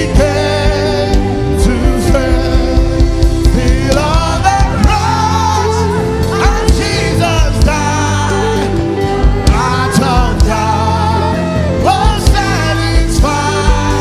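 Congregational gospel hymn singing with live band accompaniment: voices carrying a melody over bass, keyboard and a steady drum beat.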